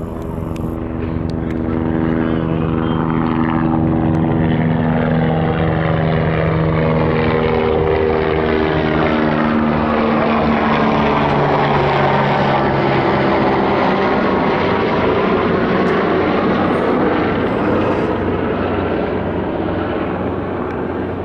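Helicopter running close by, growing louder about two seconds in and staying loud, its tones slowly falling in pitch as it moves.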